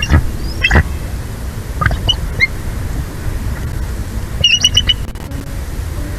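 Bird calls over a steady low rumble of wind noise: a few single high calls in the first half, then a quick series of high chirps about four and a half seconds in.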